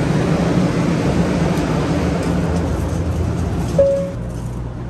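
Steady hum and rumble of a Shinkansen bullet train standing at the platform. A short beep sounds a little under four seconds in, and the noise then turns quieter and duller on stepping into the train's vestibule.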